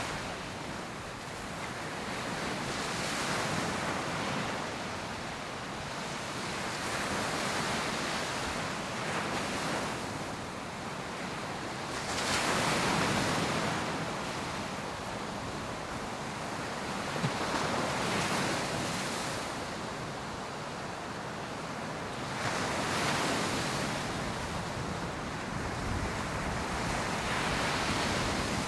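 Ocean surf: waves breaking on the shore, the rush of water swelling and fading about every five seconds.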